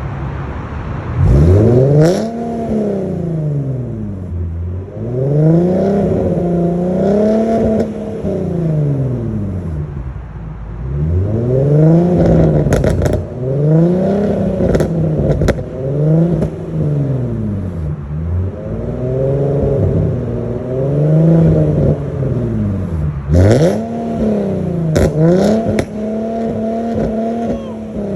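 Nissan 370Z's V6 engine revving up and falling back again and again, about eight times, with scattered sharp clicks or pops among the revs.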